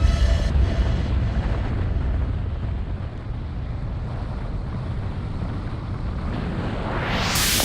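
Wind rumbling on an action camera's microphone while riding, a steady low rumble without any engine tone. Near the end a bright hiss rises quickly and holds.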